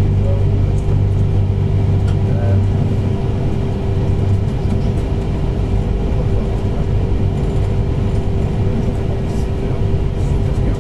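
Cabin running noise of a moving TER regional train: a steady rumble of wheels on rail with a constant low hum and a steady higher tone.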